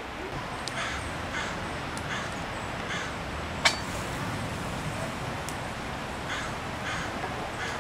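A bird calling in short repeated calls, several in a row, pausing midway and starting again near the end, over a steady low background hum. A single sharp click sounds about halfway through.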